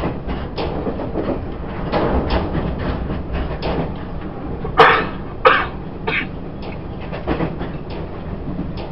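Onboard running sound of a Taiwan Railways E1000 push-pull express train: a steady low rumble of wheels on rail with frequent short clicks, and two loud sharp sounds about half a second apart a little under halfway through.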